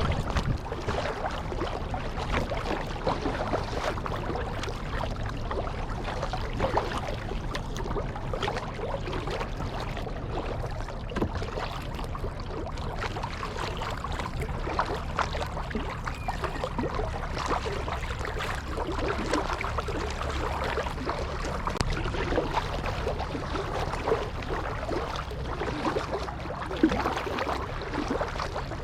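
Kayak being paddled on salt water: paddle blades dipping and water splashing and lapping against the hull, with a steady low rumble underneath.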